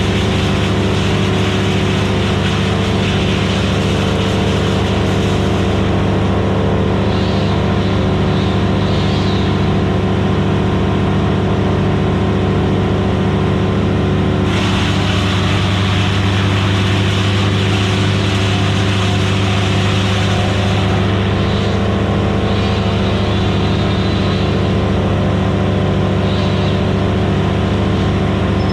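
Vermeer BC1000XL gas wood chipper running at full speed, a steady loud engine drone. About halfway through, the sound turns brighter and harsher.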